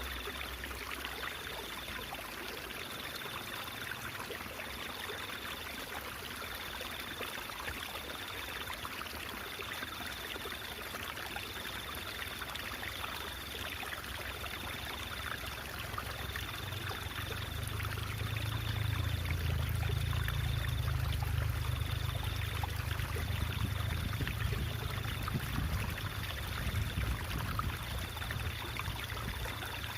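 Stream water trickling and babbling steadily, with a faint high pulsing tone about once a second. A low rumble swells in the middle and fades again near the end.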